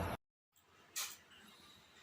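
The preceding sound cuts off suddenly, then a single sharp click about a second in, with faint quiet background after.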